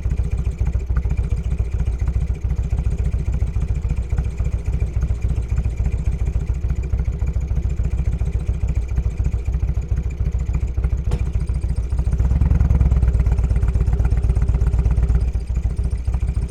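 Motorcycle engine idling with an even low pulse. It gets louder for about three seconds near the end, then settles back.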